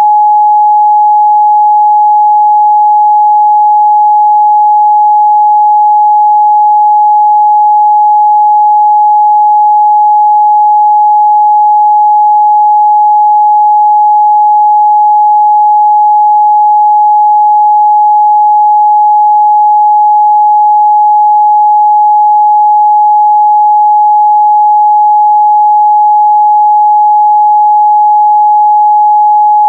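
A steady, loud pure sine-wave test tone at 841 Hz, held at one unchanging pitch and level.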